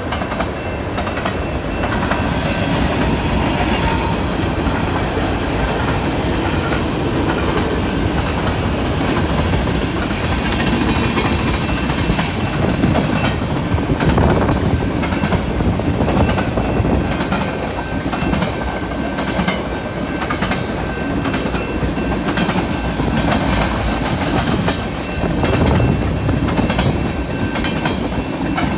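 Canadian National freight train rolling past at close range: a steady rumble of railcars with steel wheels clicking over rail joints, and faint high steady tones from the wheels on the rails.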